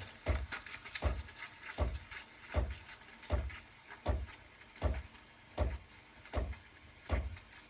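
Klarstein Bella Vita espresso machine steaming milk in a jug, its pump pulsing in a steady rhythm about every three-quarters of a second.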